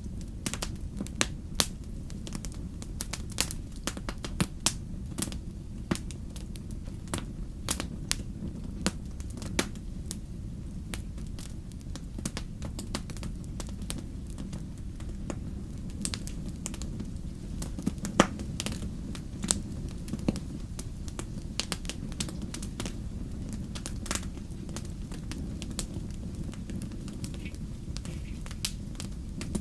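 Wood fire burning in a fireplace, crackling with frequent irregular sharp pops over a low steady rumble of flames; one pop about two-thirds of the way through stands out as the loudest.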